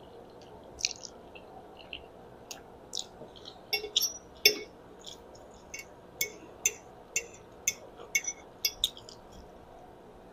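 Close-up chewing and eating of spaghetti: a run of wet mouth clicks and smacks, irregular and quick.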